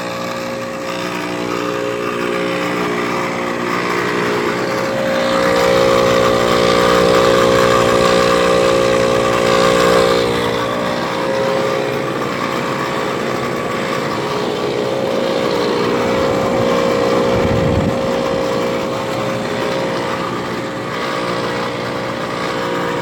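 A central air conditioner's outdoor unit running: a steady mechanical hum with fan noise. A set of steady tones in it fades out about halfway through, and there is a brief low rumble a few seconds before the end.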